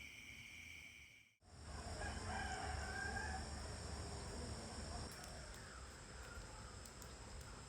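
Insects trilling in steady high tones, cut off sharply about a second and a half in; then a rooster crows once, with insects still buzzing behind it.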